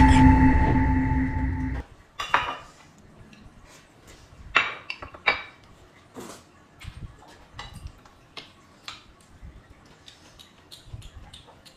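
Scattered clinks and small knocks of tableware and eating, after a loud steady tone that cuts off suddenly about two seconds in.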